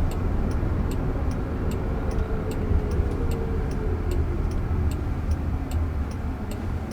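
Turn-signal indicator ticking steadily, about two or three clicks a second, inside a moving car's cabin over a low road rumble. A faint falling whine runs through the middle as the car slows for a U-turn.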